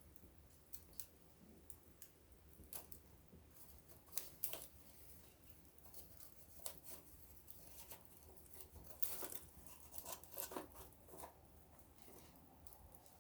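Small wood fire crackling: faint, irregular snaps and pops, with a quicker cluster of crackles about two-thirds of the way through.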